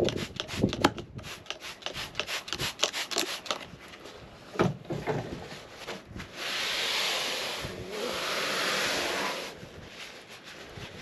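Rag scrubbing the grimy dashboard of an old semi truck in quick back-and-forth strokes, about four or five a second. Halfway through come two steady hissing bursts of about a second and a half each.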